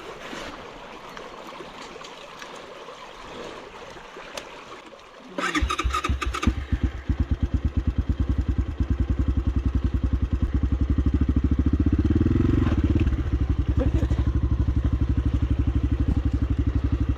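Water running over stones for the first five seconds; then a small single-cylinder motorcycle engine starts suddenly and settles into an evenly pulsing idle, with a brief rise in revs past the middle.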